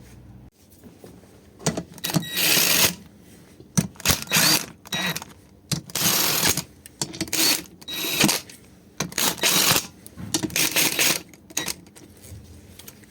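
Hand ratchet wrench clicking in repeated short runs as bolts on the engine's crankcase are run down, about a dozen bursts of half a second to a second each with short pauses between.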